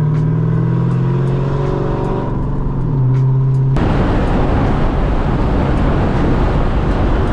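Lexus SC400's 1UZ-FE V8 running through a loud exhaust, its note steady, then dropping in pitch about two to three seconds in. Just before the fourth second the engine note gives way abruptly to a loud, even rushing noise.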